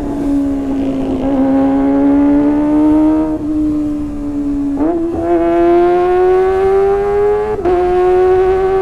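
Kawasaki ZX-25R's 250 cc inline-four engine through a Sportisi Motorsport SRX aftermarket exhaust, running at high revs with a high, even exhaust note. The pitch climbs slowly, jumps up sharply about five seconds in, then climbs again and dips slightly near the end.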